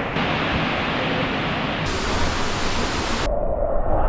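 Steady rushing noise of falling water from a waterfall, loud and even, with a slight change in quality about two and three seconds in.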